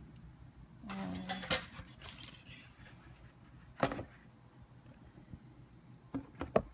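Small plastic action-camera mount parts being handled and fitted together, giving sharp clicks and knocks: a cluster about a second in, a single one near four seconds, and two close together near the end.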